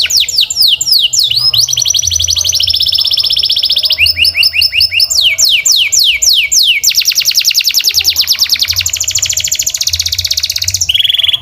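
Domestic canary singing a loud, continuous song of rapid repeated notes. Runs of quick falling notes alternate with fast steady trills, switching pattern every second or two. It ends on a short lower trill and cuts off suddenly.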